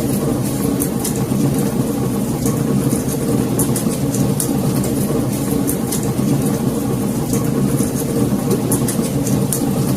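Wood fire burning in a fireplace: a steady low roar of flames with frequent small, sharp crackles and pops, several a second at irregular intervals.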